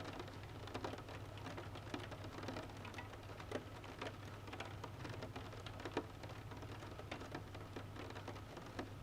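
Rain pattering, with irregular drops tapping on a hard surface, over a low steady hum.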